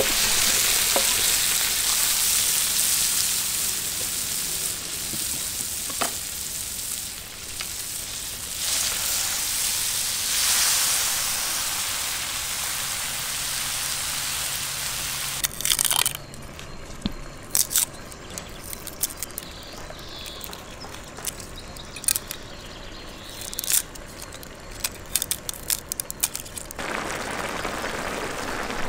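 Chopped tomatoes sizzling in a large steel wok-like pan of hot frying onions over a gas burner, stirred with a wooden spatula. About halfway through the sizzle drops and scattered sharp clicks and pops take over, then a steady sizzle returns near the end as the tomato mixture bubbles.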